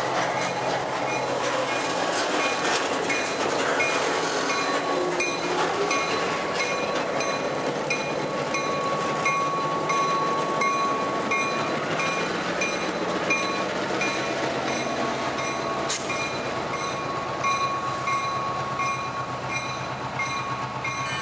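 Freight cars and an EMD SW1200 diesel switcher rolling slowly past close by: the engine's low running, wheels clicking over rail joints at an even beat, and a thin steady wheel squeal through the middle.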